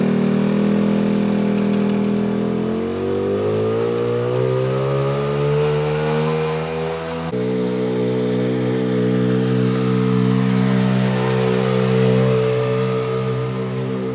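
Vehicle engine running loud under load, its pitch climbing steadily for a few seconds as it accelerates. About seven seconds in the sound changes abruptly to a steady, even engine note.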